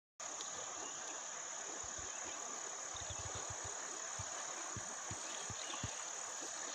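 A chorus of insects, likely crickets or cicadas, keeping up a steady high-pitched drone, with a few soft low bumps in the middle.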